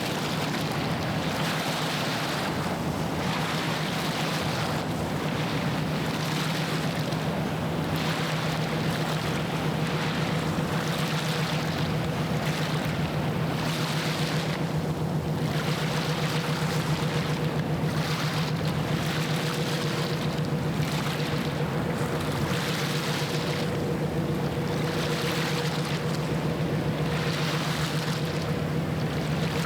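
A passing ship's diesel engine gives a steady low drone, with a higher tone joining in about a third of the way through. Over it, water washes against the shore in regular swells.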